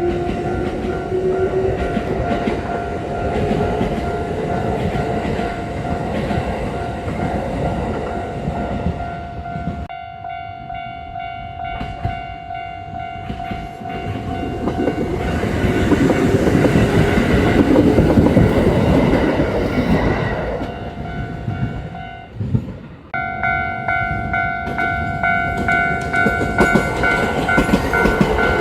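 Kintetsu electric train passing, its wheels clacking over the rail joints, with steady tones ringing over the rumble.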